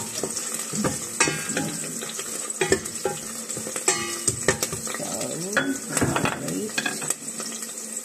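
Garlic and onion sizzling in oil in a stainless steel pot, with a wooden spoon scraping and knocking against the pot as they are stirred. The stirring stops about seven seconds in, leaving the sizzle.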